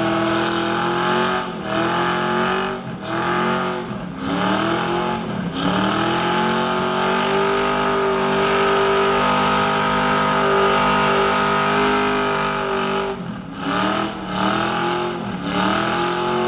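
Car engine revving hard during a burnout as the tyres spin. The revs drop and climb back several times early and late, and are held high and steady for about six seconds in the middle.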